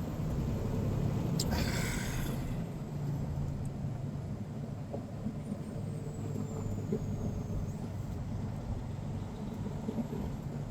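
Semi-truck's diesel engine running steadily with road rumble, heard from the cab while creeping in traffic, with a short hiss about two seconds in.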